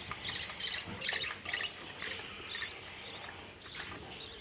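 Budgies chirping: a run of short, high chirps at irregular intervals.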